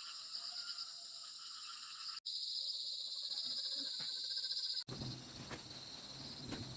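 Insects chirring in a steady high-pitched chorus, broken by two abrupt cuts; after the second, about two-thirds of the way in, the chorus fades into a noisier outdoor background with a few faint knocks.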